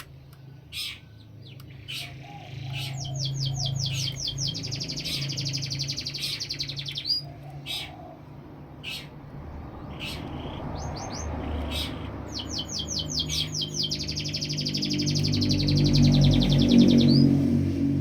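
A songbird singing: sharp single chip notes, then two long, very fast high trills of a few seconds each, the second ending on a rising note. A low hum runs underneath and grows louder near the end.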